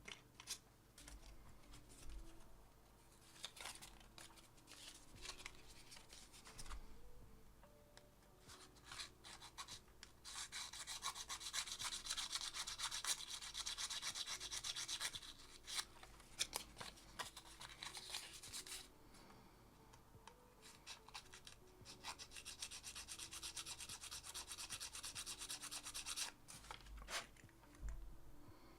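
Close, fast rubbing or scrubbing on a small hard part in two spells of about five and four seconds, with scattered small clicks and knocks between.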